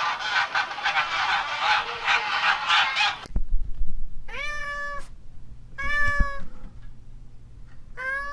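A flock of geese honking together, cut off abruptly about three seconds in. Then a domestic cat meows three times, each meow a single drawn-out call of under a second.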